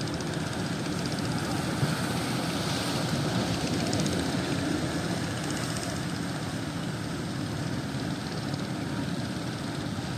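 Fishing boat's engine running steadily, a continuous low drone with no change in pace.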